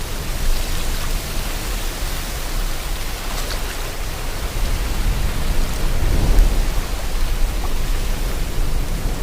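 Sea water and wind: a steady wash of noise over a low rumble, swelling about six seconds in.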